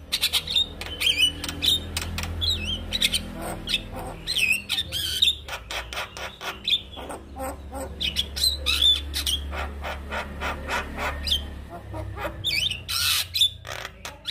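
Male Javan myna singing: a varied, fast chatter of sharp clicks, rattling runs and whistled rising and falling notes.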